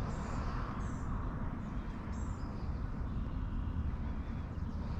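A few short, high bird chirps in the first couple of seconds over a steady low rumble.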